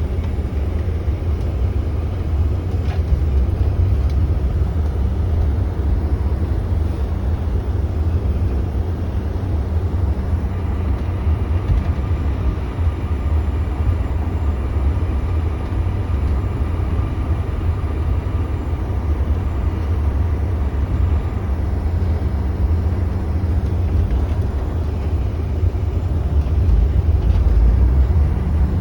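Cabin noise of a CRJ-900 regional jet, heard from the front cabin: a steady low rumble of the twin rear-mounted turbofans and the airframe as the jet taxis and moves into its takeoff roll, growing louder near the end.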